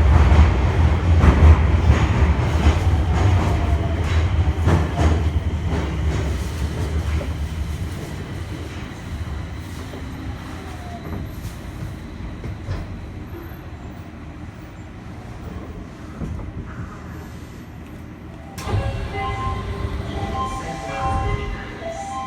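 Interior running noise of a Nagoya subway N1000-series train with Mitsubishi IGBT traction equipment: heavy low rumble and wheel-on-rail noise that fades steadily. Near the end a new sound with short pitched tones starts suddenly.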